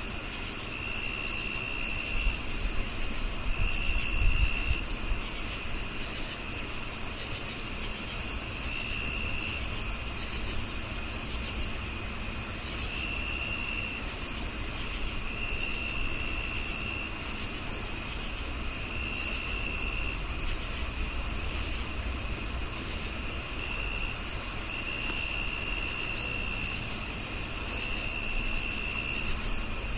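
Several crickets calling together: a steady high trill, a rapid regular chirping above it, and a lower trill that comes in bursts of about a second every couple of seconds. A brief low rumble comes about four seconds in.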